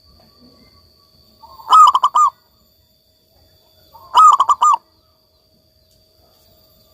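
Zebra dove (perkutut) singing: two short phrases of quick, rolling coos, each a run of four or five notes lasting under a second, about two and a half seconds apart.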